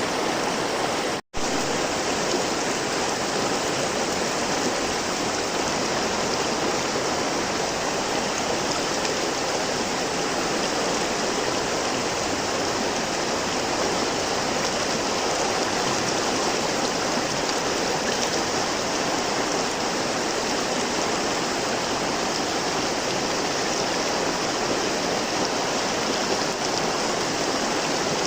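River water flowing in a steady, even rush. The sound drops out to near silence for a split second about a second in, then carries on unchanged.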